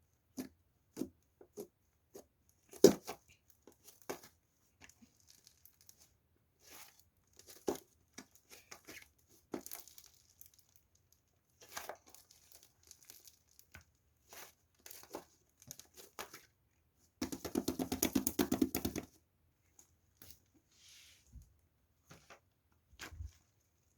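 Crinkly plastic being handled and torn by hand: scattered rustles and clicks, then a dense stretch of crinkling about two-thirds of the way through.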